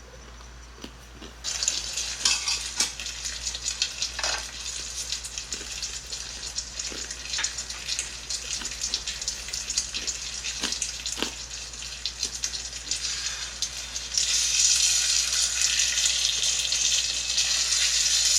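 Food sizzling as it fries: a steady hiss with scattered crackles and pops that starts about a second and a half in and grows louder near the end.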